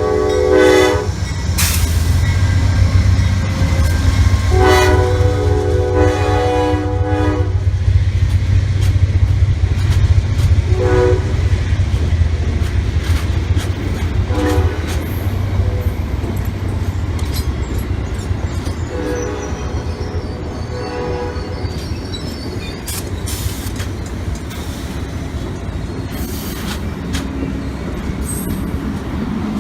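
Diesel locomotive multi-chime air horn sounding over the heavy low rumble of a passing train. A blast ends about a second in, a long blast follows about five seconds in, then shorter, weaker horn notes come through the middle. The rumble eases off toward the end, with faint wheel squeal.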